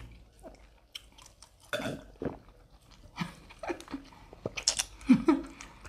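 Close-miked mouth sounds of eating: chewing and smacking in short scattered clicks, with a few brief voiced murmurs.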